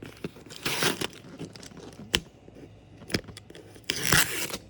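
Cardboard box packing being cut and torn open: two rasping tearing strokes, about a second in and near the end, with a few sharp clicks between.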